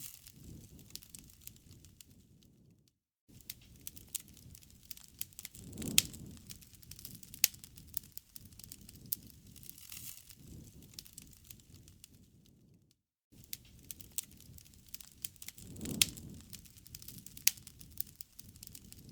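Wood campfire crackling: a low rumble of burning logs with many sharp pops and snaps, swelling louder twice. The sound cuts out briefly twice, about ten seconds apart.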